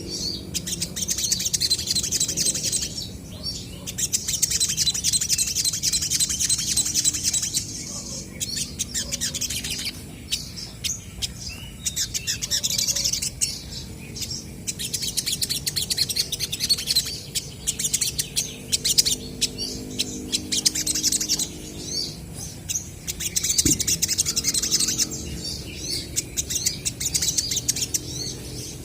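Olive-backed sunbirds singing and calling back and forth: fast, high-pitched chirping and twittering phrases of a few seconds each, with short pauses between them.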